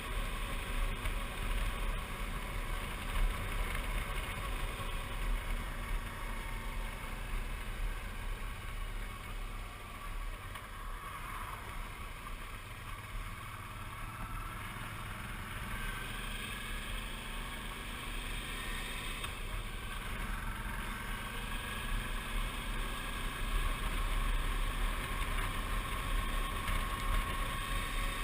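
Suzuki V-Strom 650's V-twin engine running with wind noise while riding, easing off in the middle and building again toward the end with a slowly rising whine.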